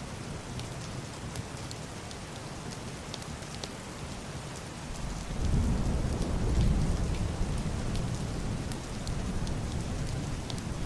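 Heavy rain drumming on a wooden roof and window glass: a steady wash with sharp drop ticks scattered through it. About five seconds in, a deep, muffled rumble of distant thunder swells up and rolls on.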